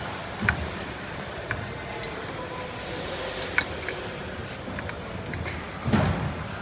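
Scattered short sharp clicks and taps, like tools and small metal parts being handled during bike brake work, over a steady background noise, with a louder dull thump near the end.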